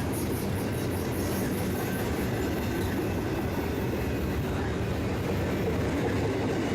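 Freight train cars rolling past: a steady rumble of steel wheels on rail.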